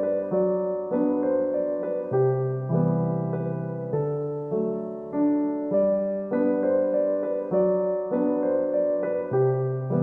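Background music: a gentle piano melody of notes struck in a steady rhythm, each one fading before the next.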